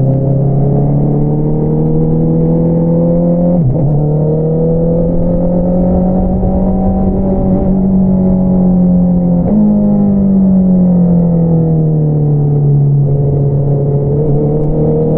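2022 Honda CBR650R inline-four running through an Akrapovič single-outlet exhaust while riding. The revs climb and drop sharply with an upshift about four seconds in, pull steadily again, then jump briefly with a downshift about nine and a half seconds in before falling away gradually and levelling off.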